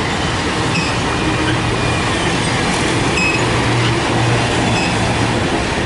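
A train passing on the rails: a steady loud rumble and rush of wheels on track, with a low hum and a few short high squeals.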